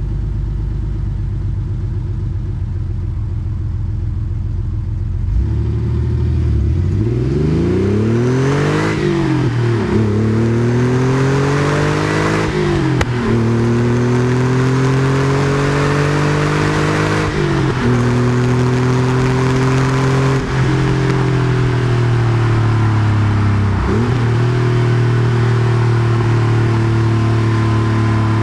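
Porsche 964 Carrera 2's air-cooled flat-six, breathing through a center straight muffler, heard from on board. It holds a steady low note for about five seconds, then accelerates, the pitch climbing and dropping back at each of several upshifts.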